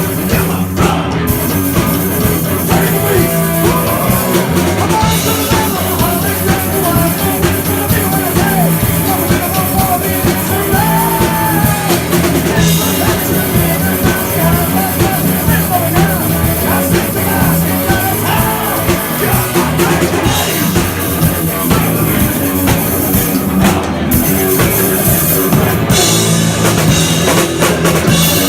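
Live rock band playing loudly, with a drum kit, electric guitars and bass, and singing over it.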